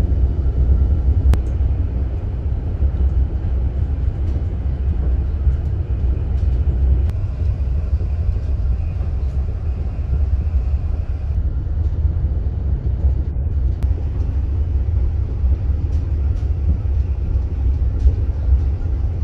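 Moving passenger train heard from inside the carriage: a steady low rumble from running on the rails, with faint high tones in the first half and a few light clicks.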